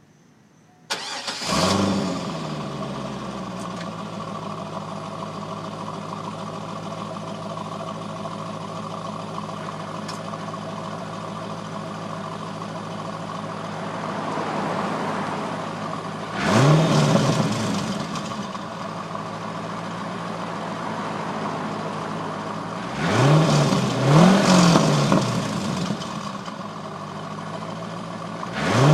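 2004 Chevrolet Corvette C5's 5.7-litre V8 on its stock exhaust, starting about a second in with a brief flare in revs, then settling into a steady idle. Later the throttle is blipped four times, the engine pitch rising and falling each time, two of the blips close together and the last right at the end.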